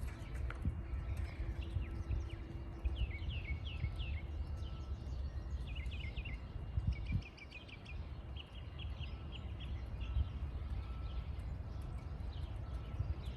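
Outdoor rural ambience: a low, steady wind rumble, with a small songbird's rapid chirps, quick falling notes in short runs, through the middle.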